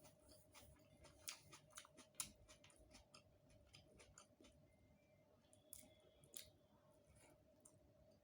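Quiet eating sounds: scattered wet clicks and smacks of chewing and handling a rice-and-curry meal, thickest in the first few seconds with two more clicks later on. A faint steady hum sits underneath.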